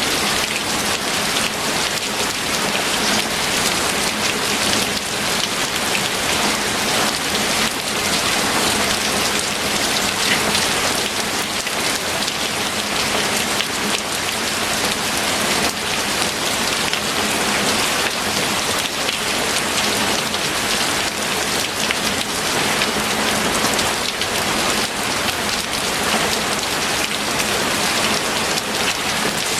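Steady heavy rain falling, a dense hiss of drops pattering on a hard surface.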